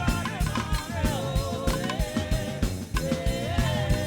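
Live gospel praise band music: a drum kit keeps a steady beat under a held melodic line that bends slightly in pitch.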